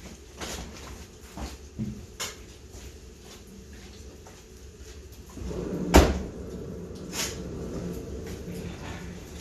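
A truck door slammed shut once, a loud sharp bang about six seconds in, after a few light knocks and steps.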